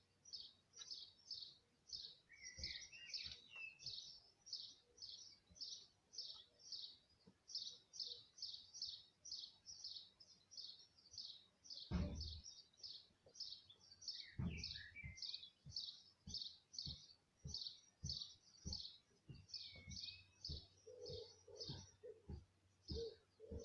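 A small bird chirping over and over, about two high chirps a second. A couple of dull thumps come about halfway through, and lighter knocks follow near the end.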